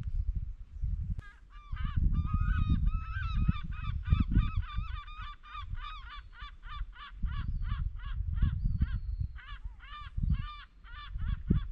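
Birds calling in a long run of quick repeated calls, about three a second, starting about a second in. Wind buffets the microphone throughout with a low rumble.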